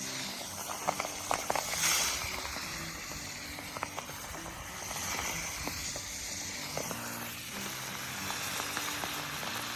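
Fish frying in hot oil over a campfire: a steady sizzle with scattered pops and crackles, busiest in the first two seconds or so.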